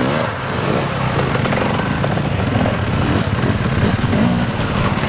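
Dirt bike engines revving up and dropping back repeatedly, with the pitch rising and falling several times.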